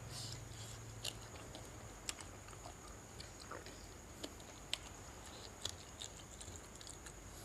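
A person chewing and crunching food at close range, with small scattered clicks and crunches. A faint steady high-pitched tone runs underneath.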